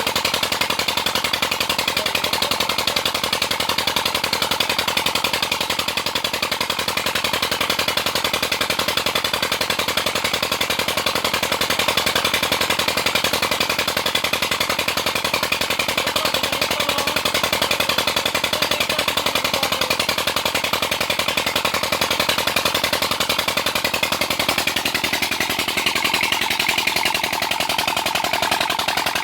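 Old diesel engine of a tubewell pump running steadily, a fast, even train of sharp exhaust beats at constant speed.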